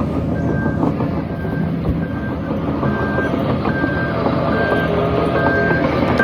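Heavy diesel earthmoving machinery running under load with a rattling, clanking clatter like steel crawler tracks, while a reversing alarm beeps steadily, about once every 0.8 seconds.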